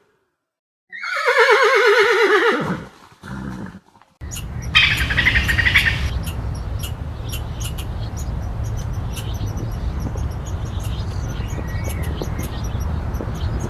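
A horse whinnies about a second in, one falling, wavering call, with a shorter sound just after it. Then a steady low outdoor background with birds chirping.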